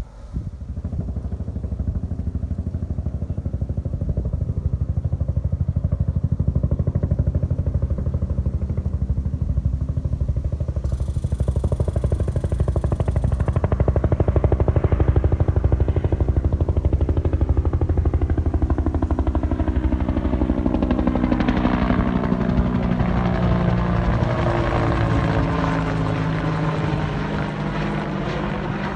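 Helicopter flying low overhead: a steady, rapid rotor chop with engine noise, the pitch falling over the last several seconds as it passes by.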